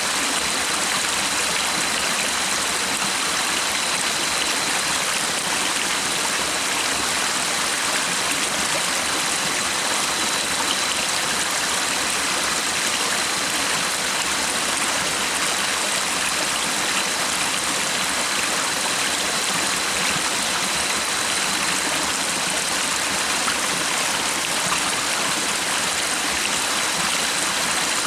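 A stream of water running steadily, a constant even rush with no breaks.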